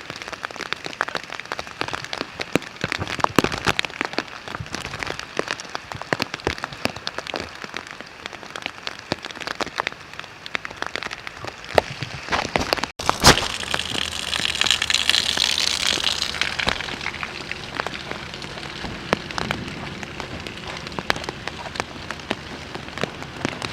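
Heavy thunderstorm rain, with dense close raindrop ticks pattering on a surface over a steady hiss. About thirteen seconds in the sound cuts out for an instant, then comes a sharp crack and a loud hissing swell that lasts about three seconds before the patter settles back.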